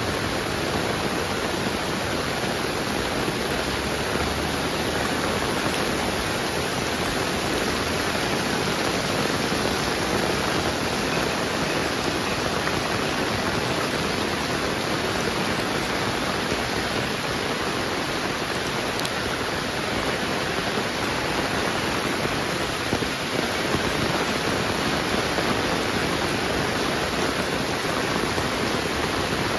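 Heavy rain pouring steadily, an even downpour hiss.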